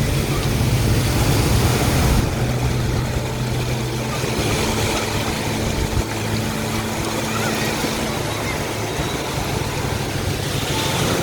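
An engine running steadily over the wash of surf. The high hiss drops away about two seconds in.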